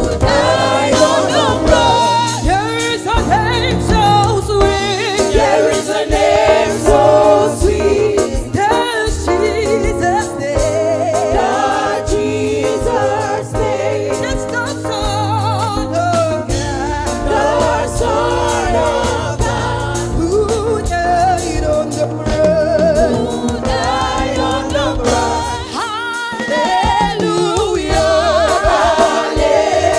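Live gospel worship music: voices singing together over a band, with a steady bass line and drums.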